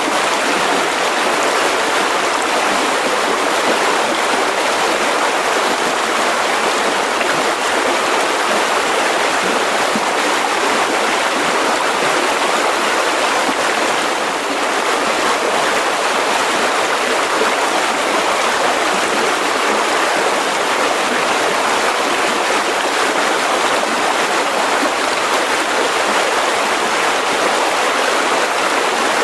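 Mountain river flowing: a steady, unbroken rush of running water.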